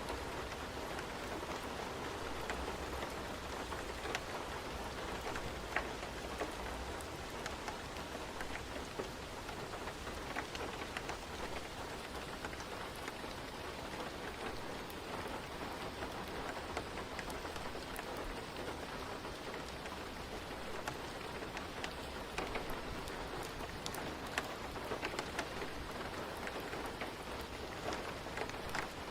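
Steady rain ambience, an even hiss of rainfall with many small sharp ticks scattered through it.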